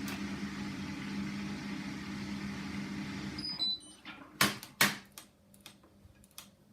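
Hotpoint washing machine spinning at 1400 rpm, a steady hum that cuts off about three and a half seconds in. A few short high beeps and then two sharp clicks follow.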